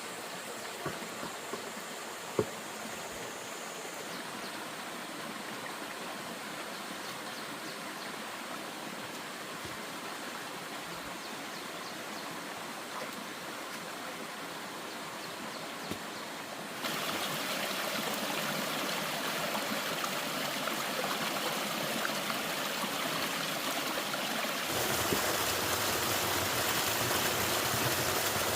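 Steady rush of running water, stepping up louder about 17 seconds in and again near 25 seconds, with a few light knocks in the first few seconds.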